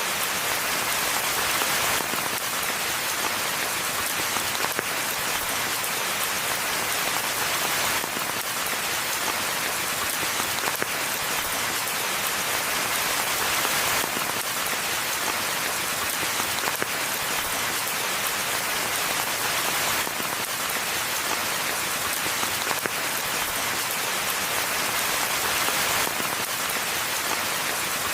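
Steady rain falling in a forest, a dense, even hiss of countless drops.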